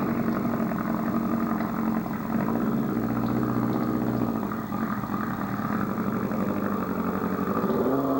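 Motor vehicle engine running steadily, then rising in pitch near the end as it revs up.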